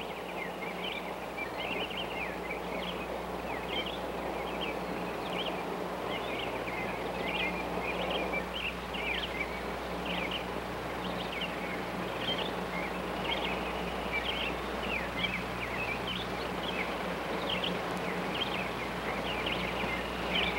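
Small birds chirping over and over, short quick calls a few times a second, over a steady low hum.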